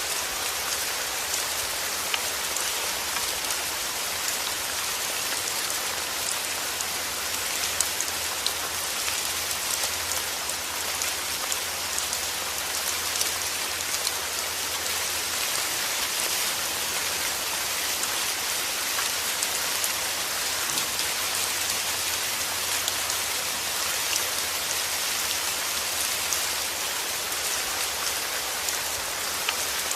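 Heavy rain falling steadily: a dense, even hiss with the sharp ticks of single drops standing out.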